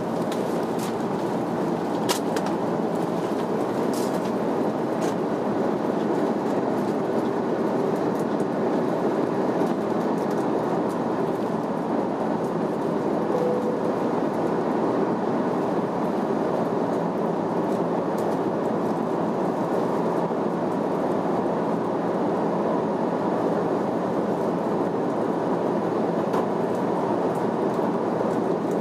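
Airbus A330-300 taking off: steady jet engine and rushing airflow noise that holds level throughout, with a few light rattles near the start.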